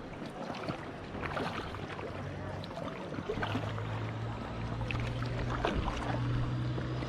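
Small splashes and drips of a canoe being paddled through water. A low, steady drone comes in about halfway through and holds.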